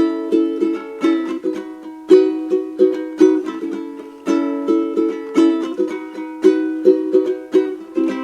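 Solo ukulele strummed in a steady rhythm with no singing, cycling through the chords E, B, C#m and A.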